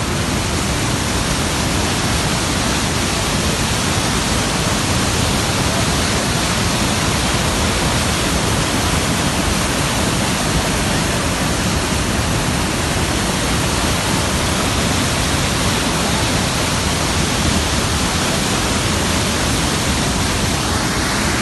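Nafakhum waterfall's water rushing in a loud, steady, unbroken noise.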